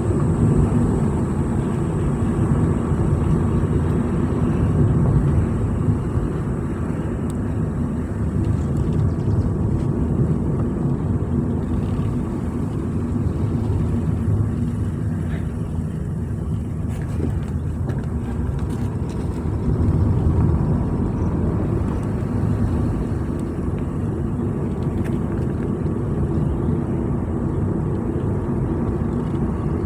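Steady engine and road noise of a vehicle being driven along a road, a low rumble that holds even throughout.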